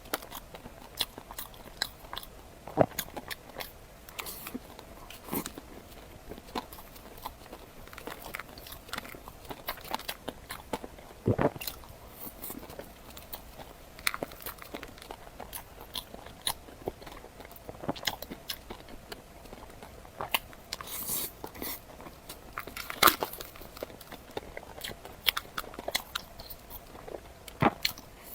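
Close-miked eating sounds: a person biting and chewing food, with irregular crisp crunches and wet mouth clicks, some much louder than others.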